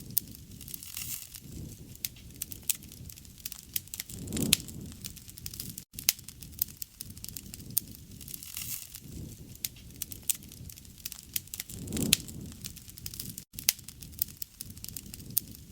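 Wood fire crackling and popping with many sharp snaps, over a low rush of flame that swells louder twice, about four seconds in and again near twelve seconds.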